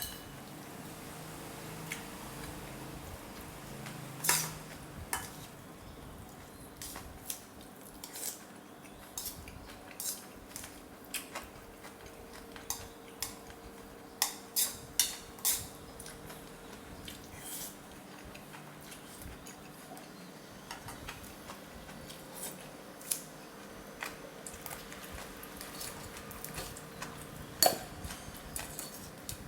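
Cutlery clinking against a soup bowl while eating, in scattered, irregular light clinks. A faint steady hum runs underneath.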